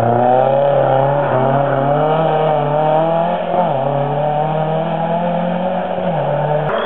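Racing car engine at high revs under hard acceleration, its pitch climbing steeply at first, then holding high with two brief drops and recoveries, about halfway through and near the end, then cutting off suddenly.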